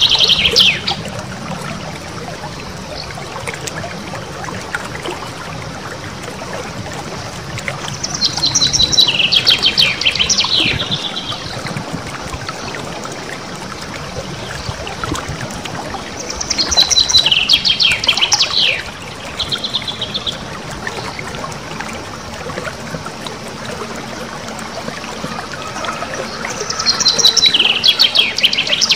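Small songbird singing a loud, high, rolling trill of rapid repeated notes in phrases of about two to three seconds, the 'nembak ngerol' song used as a training recording for cage birds. The phrases come about every eight seconds over a steady hiss.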